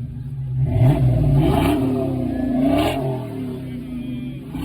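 Car engine revved hard: the pitch climbs about a second in, holds high with a couple of blips, then falls back toward idle after about three seconds.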